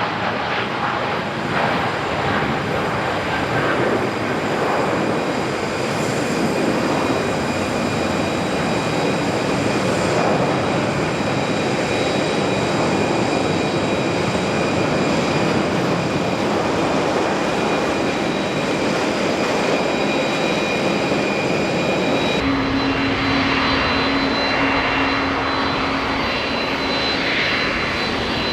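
Jet airliner engines running loud and steady, a broad rush with thin high engine whines on top. About 22 seconds in the sound changes abruptly to a different jet, with a steady low hum added.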